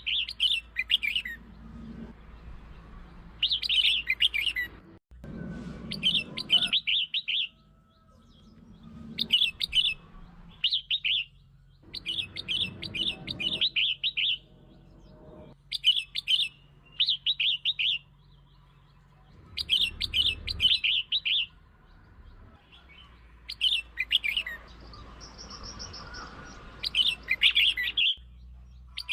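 Red-whiskered bulbul song: short, bubbly phrases of quick chirping notes, one every couple of seconds. It is the kind of song used as a lure to provoke other bulbuls.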